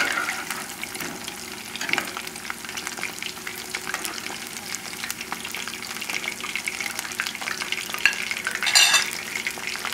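Battered chicken pieces deep-frying in hot oil in a metal pot: a steady crackle of fine pops from oil hot enough to keep it bubbling hard. A metal spoon stirring the pieces clicks against the pot a few times in the first couple of seconds, and a brief louder rasp comes near the end.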